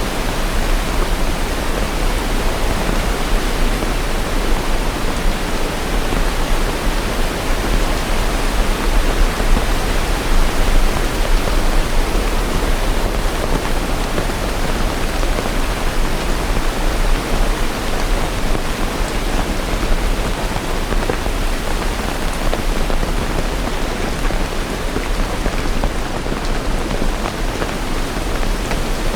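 Steady heavy rain: an even, continuous hiss of rainfall with no distinct drops or thunder standing out.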